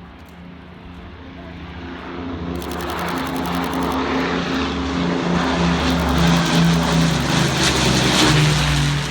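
Propeller-driven piston aircraft of the Battle of Britain Memorial Flight departing: a throbbing engine note that grows steadily louder over several seconds, is loudest near the end, then begins to ease off as the aircraft passes.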